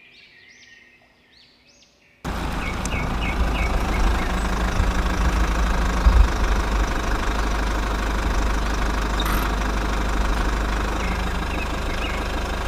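Faint birds chirping, then about two seconds in a loud, steady engine rumble cuts in abruptly and runs on, with a few bird chirps still heard over it.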